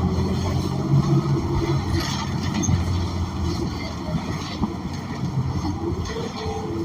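Interior of a New Flyer XN40 city bus under way: its Cummins Westport ISL G natural-gas engine running with a steady low hum, over road noise and scattered rattles and knocks from the body.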